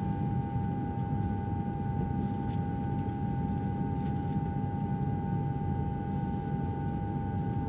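Steady airliner cabin drone: a low, even rumble with a constant high hum running through it.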